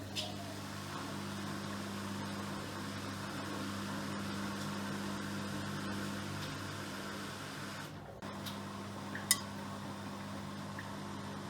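Miele Professional PW6065 Plus washing machine running mid-cycle with a steady low hum, briefly dipping about eight seconds in, and one short sharp click a little after.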